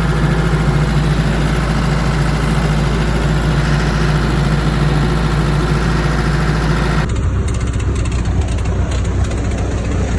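Tractor engine running steadily. About seven seconds in the sound switches abruptly to a lower-pitched engine drone.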